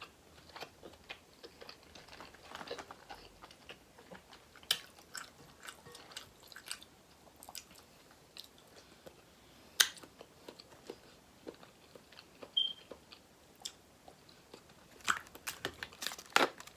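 Close-up chewing and biting of seafood, with scattered sharp crunches and clicks, the loudest about ten seconds in and a quick run of them near the end.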